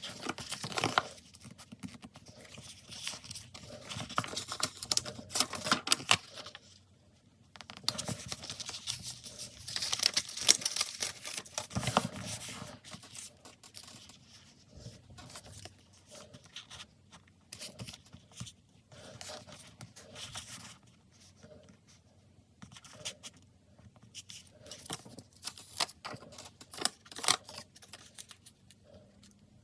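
Stickers being peeled off their backing sheets and handled over a paper diary page: irregular crackling, rustling and tearing sounds, with a brief pause about a third of the way through.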